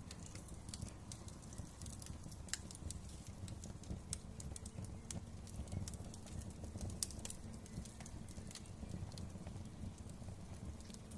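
Wood fire crackling: irregular sharp pops and snaps over a steady low rumble of burning, with a louder pop about seven seconds in.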